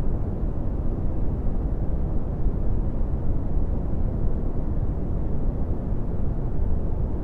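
Brown noise: a steady, deep rumbling hiss with most of its weight in the lows and little treble, unchanging throughout.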